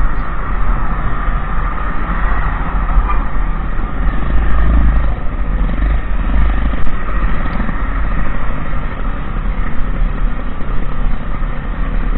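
A motorbike being ridden along the road: a steady, heavy low rumble of engine and riding noise with no breaks.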